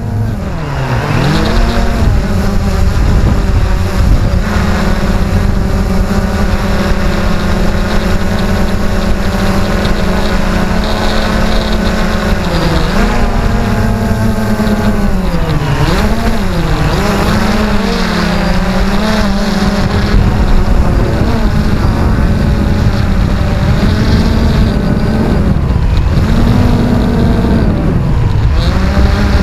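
XK X380 quadcopter's motors and propellers whining steadily, their pitch dipping and climbing back several times as the throttle changes, mostly near the middle and near the end. Heavy wind buffets the microphone underneath.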